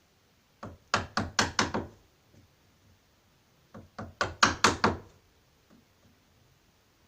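Wood chisel being struck to cut the outline of a deadlock mortise into the edge of a wooden door. Two quick runs of about six sharp blows each, one about a second in and one about four seconds in.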